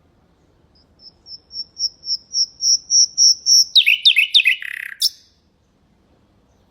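Common nightingale singing one phrase. It is a run of clear, repeated high whistles, about five a second, that swell steadily louder for some three seconds, then a few quick downward-sweeping notes, a short buzzy note and one sharp closing note.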